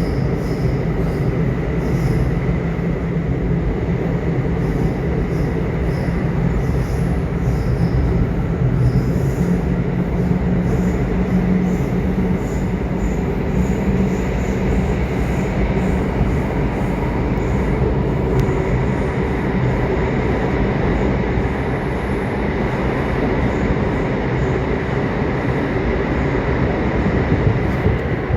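Subway train running along the track: a steady low rumble of wheels and car body, with a faint steady high tone and light wheel clicks over it.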